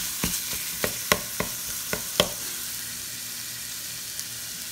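Ground chorizo sizzling as it browns in a frying pan, with a wooden spoon stirring and knocking against the pan several times in the first couple of seconds, then only the steady sizzle.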